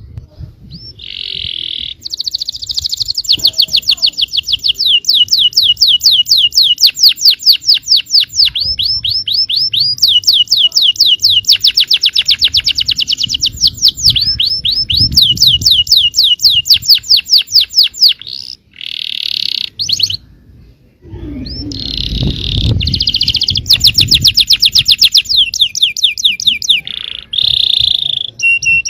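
Domestic canary singing: long, fast rolling trills of rapidly repeated high notes, several phrases in a row with a short break about two-thirds of the way through.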